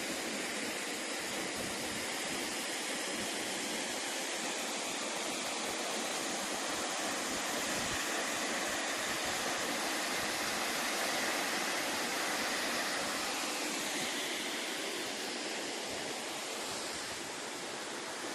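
Large waterfall's water falling and crashing, a steady even rush with no breaks.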